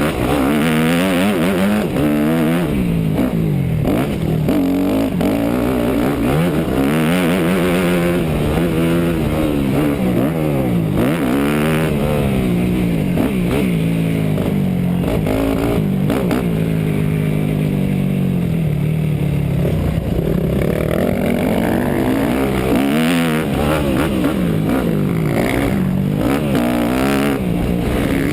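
A 250 cc four-stroke motocross bike's engine, heard from onboard, revving up and dropping off again and again as the throttle is opened and shut. It holds steadier revs for a few seconds about halfway through.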